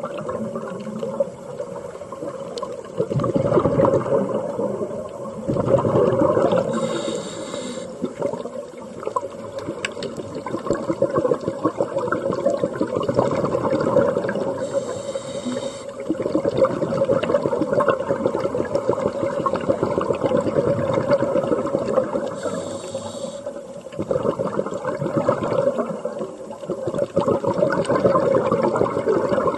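Underwater sound of a scuba diver breathing through a regulator: a short hissing inhale about every seven or eight seconds, with surges of bubbling exhaust between them.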